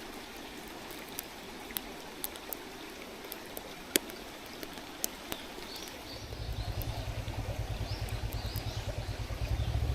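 Mountain stream flowing steadily, with sharp crackles and pops from a wood campfire. About six seconds in, a low pulsing engine rumble of a passing vehicle comes in and grows louder, with faint birdsong above it.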